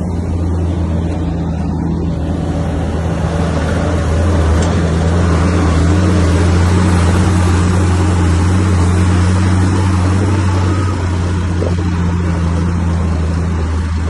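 Komatsu bulldozer's diesel engine running with a steady low hum, growing louder and busier from about four seconds in as it works under load, then easing off a little near the end.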